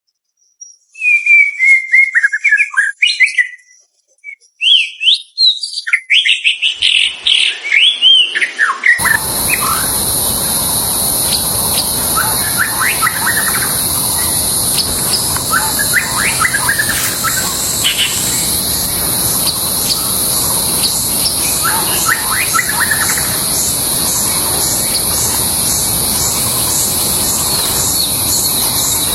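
White-rumped shama (murai batu) singing loud, rapid whistled phrases that glide up and down. From about nine seconds in, a steady high hiss runs beneath, and the song comes in quieter, spaced bursts.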